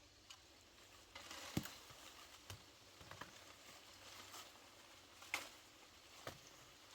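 Faint rustling and handling noise with a few sharp clicks or snaps, the loudest about one and a half seconds in and again about five seconds in.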